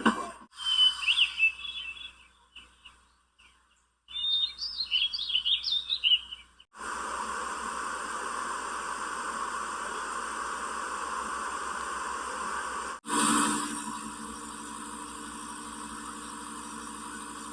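Sound machine playing its built-in nature sounds: two short stretches of recorded birdsong chirping, then a steady rushing noise sound. About 13 s in, the steady noise switches to a different steady noise, with a brief swell.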